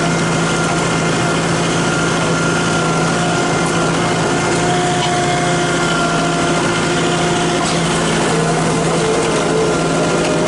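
Small engine of a farm vehicle running steadily at an even speed while being driven, loud and close, with road and rattle noise underneath.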